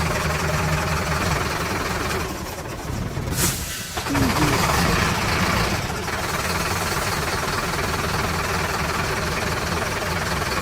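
A vehicle engine running steadily, with a brief dip and interruption about two to four seconds in before it carries on.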